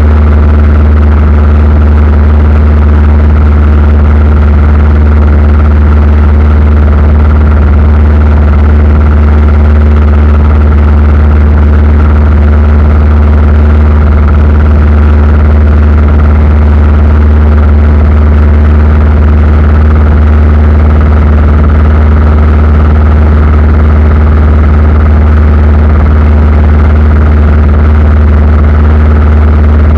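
Aircraft engine noise heard from inside the cabin: a loud, steady drone with a strong low hum that does not change.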